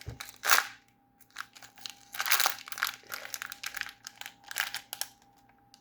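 Small plastic bag of building-brick parts crinkling as it is handled, in irregular bursts.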